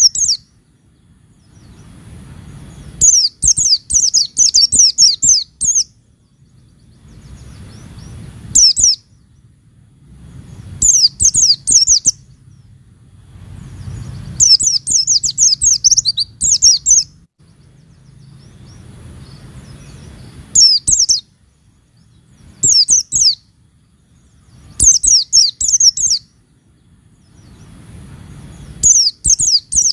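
Pleci (white-eye) calling in repeated bouts of rapid, high-pitched chirps, each bout lasting one to three seconds, with short pauses between them. A faint low hum fills the gaps.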